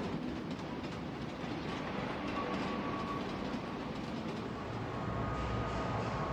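Train running on the tracks: a steady rolling noise, with a deeper low rumble coming in about five seconds in.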